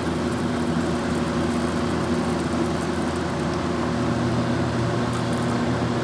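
A 1952 Vornado room air conditioner running: a steady hum of compressor and blower with a few pitched lines in it. About two-thirds of the way through, the hiss fades and the low hum gets stronger.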